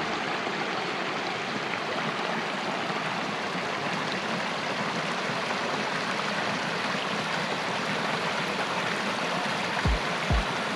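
Steady rushing of flowing creek water, with two low thumps near the end.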